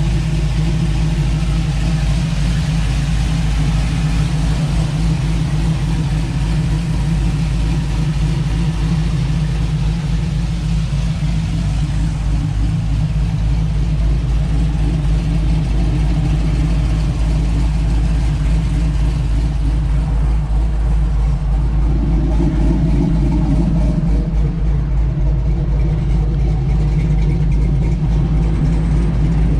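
Cammed, fuel-injected LS V8 with headers and a Flowmasters dual exhaust idling steadily.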